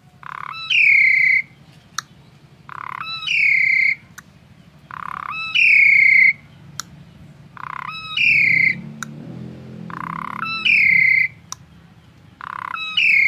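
A songbird giving the same loud call over and over, about every two seconds: each a short lower note and then a whistle that slides slightly downward. Sharp clicks fall between the calls.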